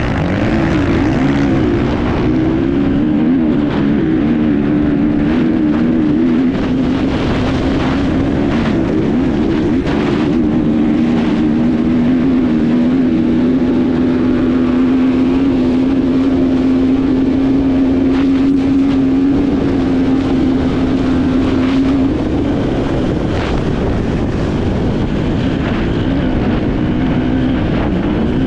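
Enduro motorcycle engine running hard, recorded on board: its pitch rises and falls with the throttle, then holds steady for several seconds around the middle before varying again. Occasional short knocks sound over the engine.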